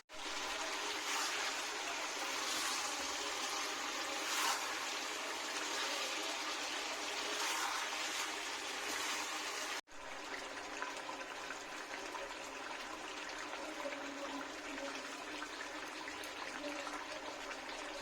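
Chicken curry frying in a pan: a steady sizzling hiss, broken by a brief dropout about ten seconds in.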